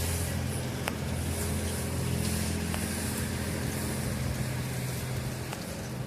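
A steady low hum of a vehicle running, with a couple of faint clicks about a second and three seconds in.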